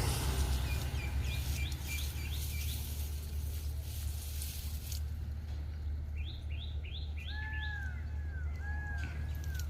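Small birds chirping: two quick runs of short sweeping chirps, then a few arched, whistled notes near the end, over a steady low rumble.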